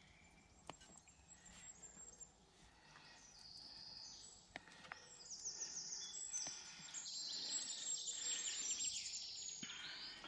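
Songbird singing in rapid, high trills that grow louder about halfway through, with a few sharp clicks in the first half.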